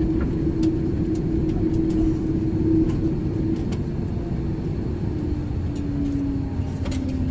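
Steady cabin drone of an Airbus A330-300 parked at the gate, with a low hum that slides down in pitch about five seconds in as the engines or air systems wind down. Scattered light clicks sound throughout.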